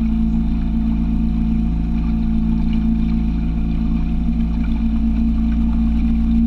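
Small boat's outboard motor running at a steady speed under way.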